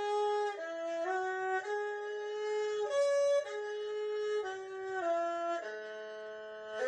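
Erhu playing a slow melody of held, sliding-free notes that change pitch every half second to a second.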